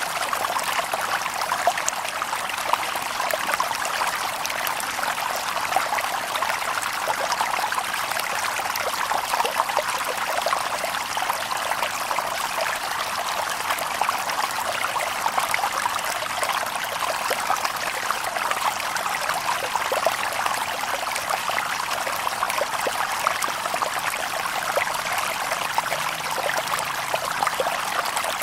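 Shallow stream babbling steadily over stones, a constant splashing wash of water with many small close splashes and no birdsong.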